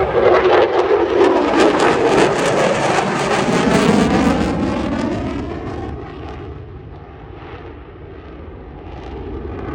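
Low, fast flyby of an airplane at an airshow: a loud rushing engine noise whose pitch falls as it passes, loudest for about the first five seconds and then fading away.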